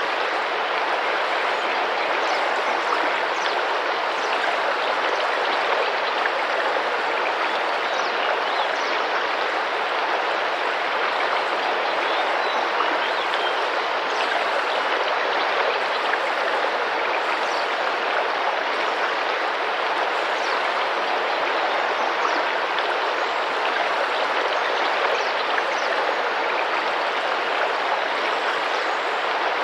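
Tropical rainforest river flowing, a steady, even rush of splashing water.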